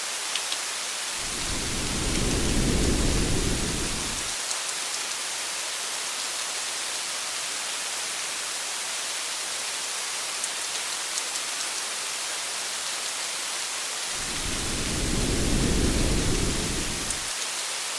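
Steady rain pattering on a car's windshield and body, with scattered single drop ticks. Two low rumbles of thunder, each about three seconds long, swell and fade, one a second or so in and one near the end.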